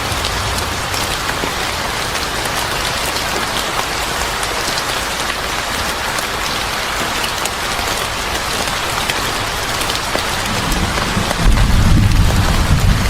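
Steady heavy rain falling on a surface, with scattered sharp drop ticks. A low rumble comes in about eleven seconds in and is the loudest sound by the end.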